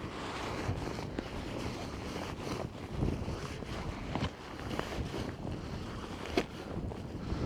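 Wind buffeting the microphone in a steady low rumble, with a few short rustles and clicks standing out over it.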